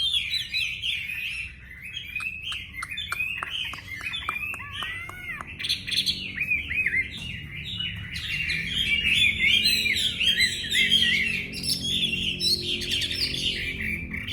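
Wambi songbird singing in full voice: a continuous, rapid, varied chattering song with a run of downward-sweeping notes a few seconds in.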